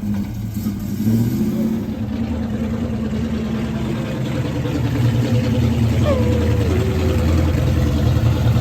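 Muscle car engine running under way, a steady low drone that picks up briefly about a second in and grows louder about five seconds in, as the car accelerates.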